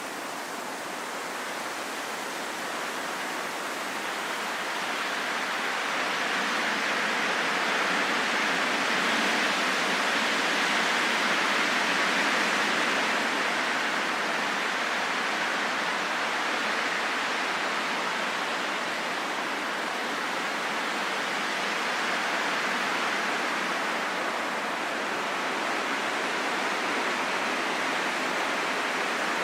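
Wind blowing as a steady rush of noise with no howling tone, swelling in a gust over the first dozen seconds and then easing slightly.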